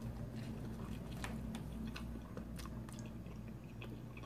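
Chewing a mouthful of stromboli with the mouth closed: scattered small wet clicks and smacks of the mouth.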